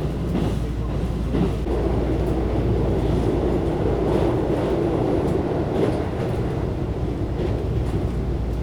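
Electric train carriage running at speed, heard from inside: a steady rumble and hum of wheels on rails, with a few faint clicks from the track.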